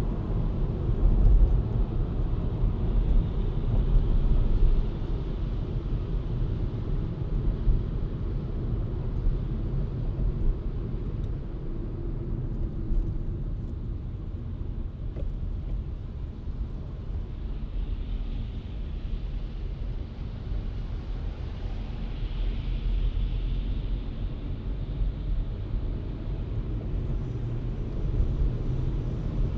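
Car driving on city streets: a steady low road and engine rumble with tyre hiss, which swells briefly twice past the middle.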